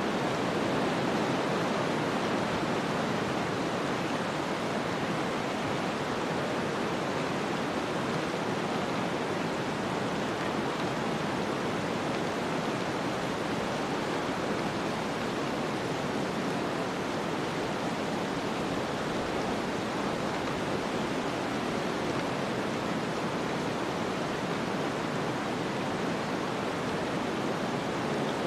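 Snowstorm ambience: a steady, even rushing hiss of wind-driven storm noise, unchanging throughout, with no distinct knocks or other events.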